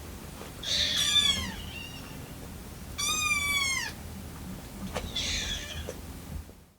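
A young kitten mewing three times, high-pitched calls that each fall in pitch: hungry crying for milk.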